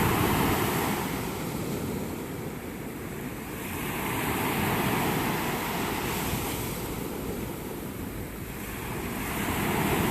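Small ocean waves washing in at the shoreline, the surf swelling and fading about every five seconds, with wind rumbling on the microphone.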